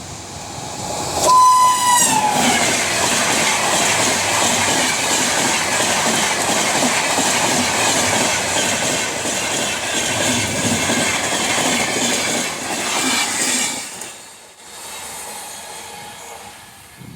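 WAP-7 electric locomotive sounding one shrill horn blast of about a second, its pitch dropping at the end as it passes. The express train then rushes past for about twelve seconds before the noise falls away.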